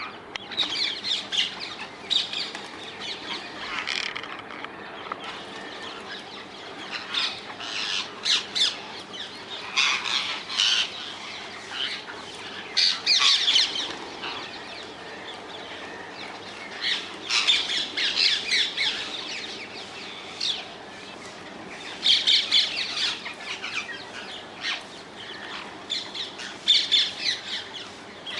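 Rose-ringed parakeets (Indian ringnecks) giving harsh, screeching squawks in repeated bouts, several birds calling together.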